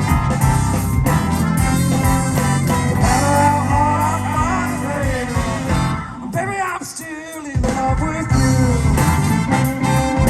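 Live blues band playing, with a lead line wavering in pitch over the band. About six seconds in, the band drops out for nearly two seconds, then comes back in full.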